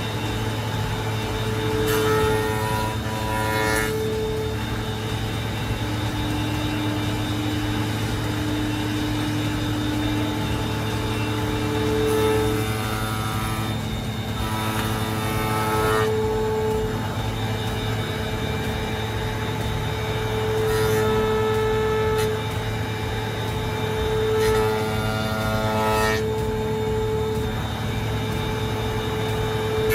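Woodworking shop machinery: a steady electric motor hum, with a higher whine that rises and drops away several times as the machine works the wood.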